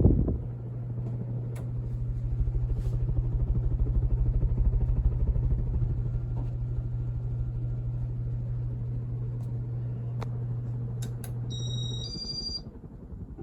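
1993 Casablanca Victorian ceiling fan's K55 motor running with a steady low hum over a fast fluttering rumble from its four blades. About twelve seconds in, the hum stops just after a brief cluster of high tones.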